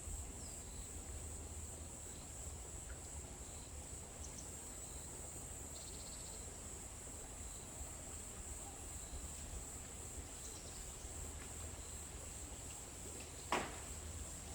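Forest ambience dominated by a steady high-pitched insect trill, over a faint low rumble, with a few faint short chirps. A single sharp click near the end is the loudest sound.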